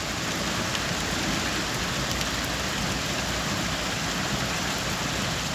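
Steady rushing of water with a low rumble underneath, from heavy rain or a flooded road.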